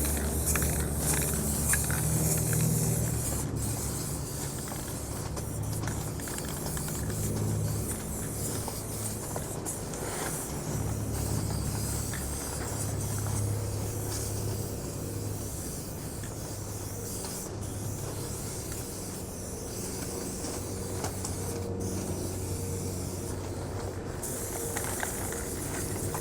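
Aerosol spray-paint cans hissing in long bursts with a few short breaks, over a steady low hum.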